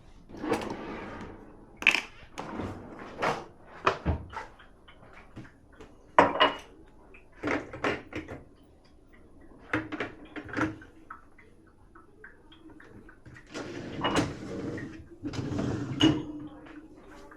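Dishes and cutlery being handled while a dishwasher is unloaded and loaded: irregular clinks and knocks as pieces are lifted and set down, with a longer sliding scrape near the end.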